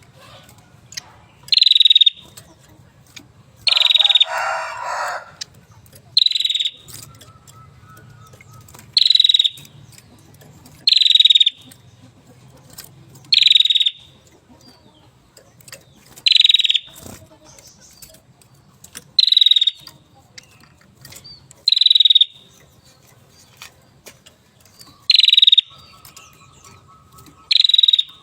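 A hill prinia (prenjak gunung) calling vigorously: a loud, high, sharp note about half a second long, repeated about every two seconds, with a longer, lower rasping call about four seconds in.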